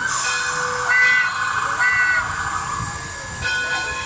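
Steam locomotive hissing out steam in a sharp burst at first, with short ringing tones about a second apart.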